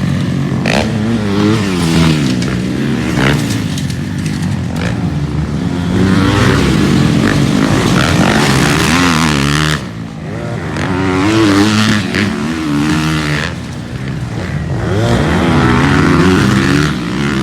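Motocross bikes racing on a dirt track, their engines revving up and falling back again and again as they accelerate and shift, with several engines overlapping.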